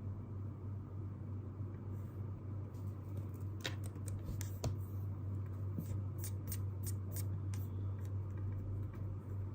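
Light clicks and taps at a desk over a steady low hum: a few about four seconds in, then a quicker irregular run between six and eight seconds.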